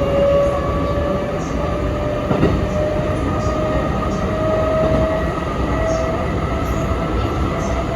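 Sanyo Electric Railway 3050-series electric train running, heard from inside the car: a steady rumble of wheels on rail under a motor whine that climbs slowly in pitch as the train picks up speed, with a single knock about two and a half seconds in.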